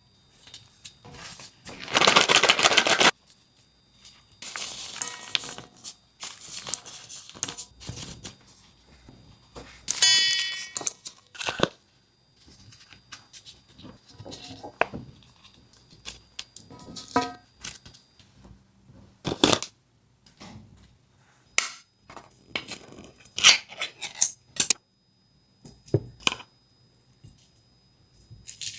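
Kitchen food-preparation sounds: scattered knocks, clinks and handling noises of utensils and dishes, with a dense rustling noise about two seconds in and a brief ringing clink about ten seconds in.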